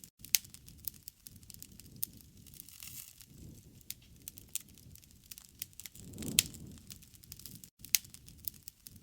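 Wood campfire crackling, with irregular sharp pops and snaps. A low rushing swell of flame comes up about six seconds in.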